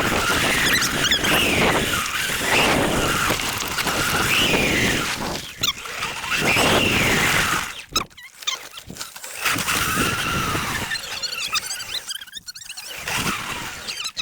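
ETM RTR electric dirt bike's motor whining, rising and falling in pitch with the throttle, over a steady rush of noise. It drops away suddenly about eight seconds in, then whines more faintly again near the end.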